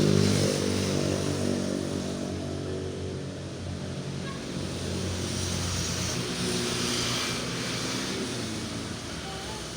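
Traffic passing on the road: a vehicle's engine hum, loudest at the start and fading away over several seconds, with tyre noise from passing traffic swelling and fading around the middle.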